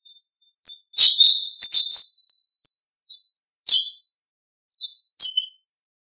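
Songbird singing: a few sharp high chirps, then a long run of quick high whistled notes from about a second in to past three seconds, and two more short phrases after a pause near the end.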